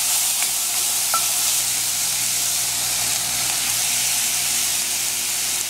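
Saltfish, onions and garlic frying in hot coconut oil in a pot, a steady sizzle, while a wooden spoon stirs them, with a couple of light knocks of the spoon early in the stirring.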